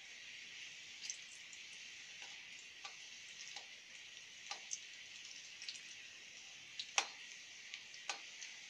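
Cumin seeds and garlic frying in oil in a kadai, a faint steady sizzle, while a perforated steel skimmer stirs them. About a dozen irregular sharp clicks and ticks break through it, the loudest about seven seconds in.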